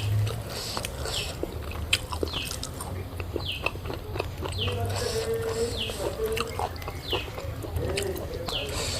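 Close eating sounds of someone chewing food, with scattered small clicks. Behind them, a short high chirp that falls in pitch repeats about once a second.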